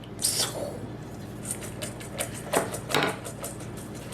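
Bare hands kneading raw ground chicken and grated cheese in a bowl: a few short squishing sounds with light clicking in between.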